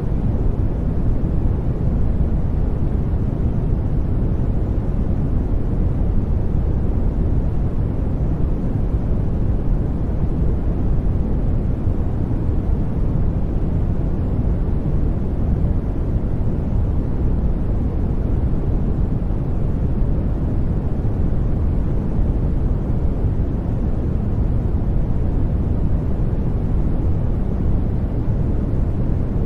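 Steady generated noise for sleep, billed as white noise but heavily weighted to the low end: a deep, even hiss that does not vary, with little treble.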